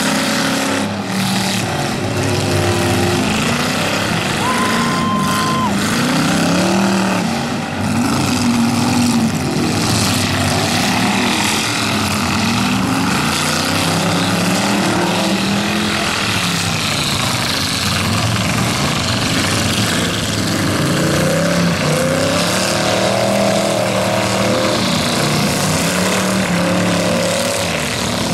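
Several demolition-derby cars' V8 engines revving, their pitches rising and falling as they drive and ram. A short steady high tone sounds about five seconds in.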